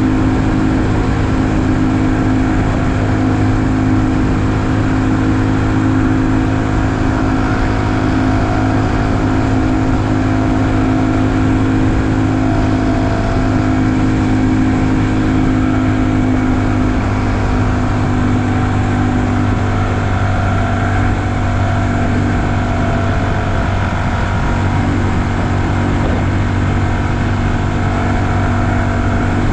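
2020 Honda Super Cub's single-cylinder four-stroke engine running steadily while riding at a cruise, its pitch shifting only slightly now and then.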